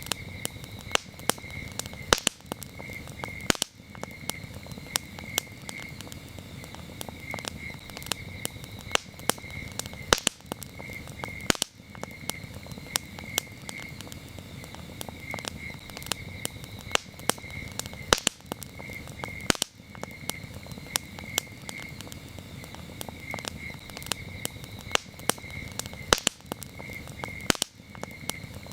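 Campfire crackling, with frequent sharp pops and snaps over a low steady rumble, while crickets chirp steadily in short repeated pulses.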